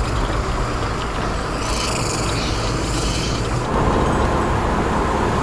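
Road and engine noise inside the cabin of a moving Toyota HiAce van: a steady low rumble that grows a little louder near the end.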